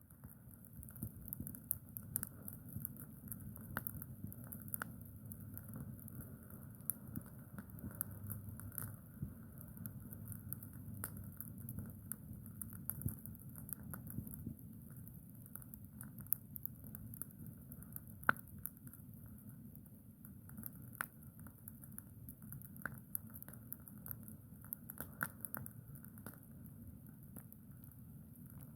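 Campfire crackling, with irregular sharp snaps and pops over a steady low rumble.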